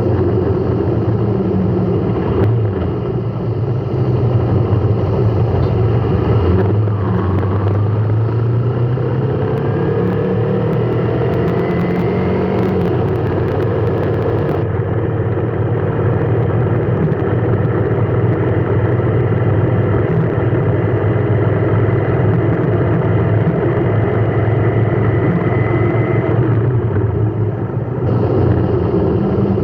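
Motor vehicle running in traffic, with a steady engine hum and road noise. Several faint whines rise slowly in pitch through the middle of the stretch, as the vehicle gathers speed.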